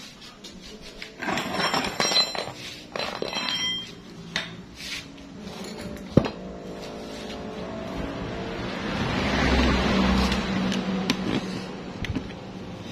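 Metal tools and parts clinking and knocking during work on a motorcycle's rear wheel hub, with a sharp click about six seconds in. A low rushing noise swells and fades in the second half.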